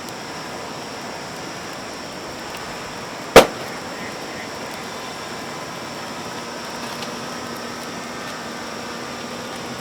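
One loud, sharp crack about a third of the way in, ringing briefly, over a steady rushing noise.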